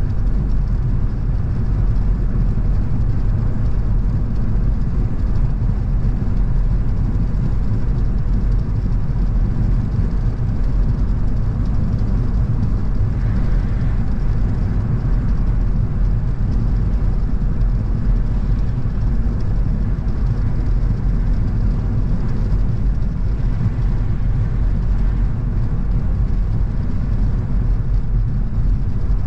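Car on the move at a steady speed: a constant low rumble of engine and tyres on the road.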